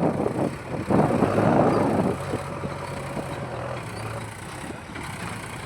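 Heavy diesel engine running, louder for about a second near the start and then settling to a steady lower hum.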